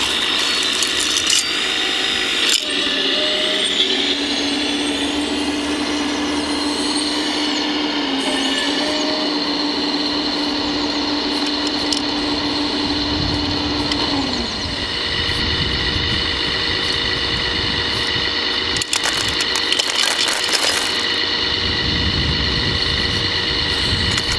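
Electric motors and hydraulic pump of radio-controlled model construction machines whining steadily. A low whine holds for about twelve seconds and then stops, while higher whines carry on. Sharp clicks and scraping come over it near the end.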